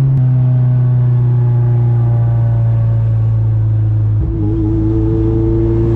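Toyota 2ZZ-GE 1.8-litre four-cylinder engine in a manual Corolla, heard from inside the car while driving. The revs sink slowly, dip briefly about four seconds in as it changes, then slowly climb again.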